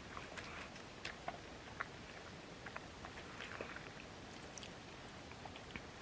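Faint eating sounds: soft chewing with scattered small clicks and ticks.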